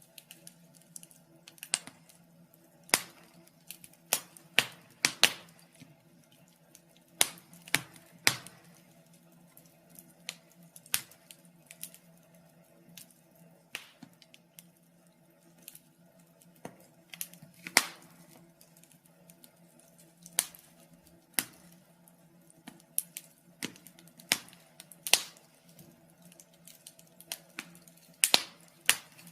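Wood fire in a fireplace crackling, with irregular sharp pops, some loud, over a faint steady hum.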